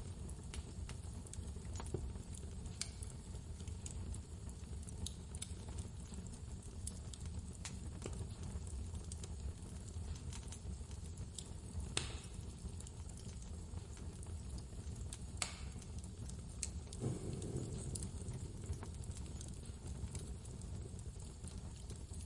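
A wood fire crackling, with scattered sharp pops, over the steady low rumble of blizzard wind.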